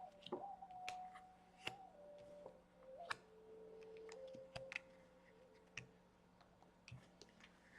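Tarot cards being handled and laid down: scattered soft clicks and ticks of card on card and on the table. A faint steady tone in the background changes pitch a few times.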